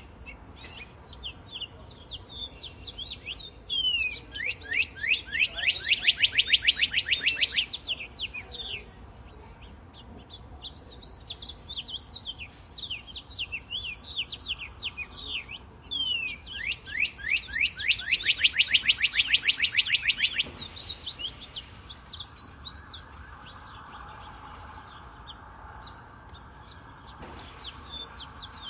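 Songbirds chirping and singing. Twice, a few seconds in and again past the middle, a bird gives a loud, fast trill of rapidly repeated down-slurred notes lasting about four seconds, with shorter scattered chirps between.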